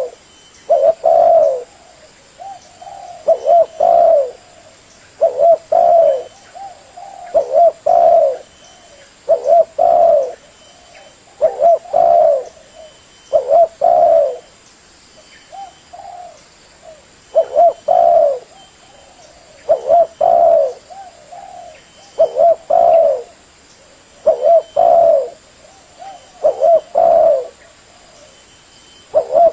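Spotted dove (tekukur) cooing: a short phrase of two or three coos repeated about every two seconds, with one slightly longer pause about halfway through.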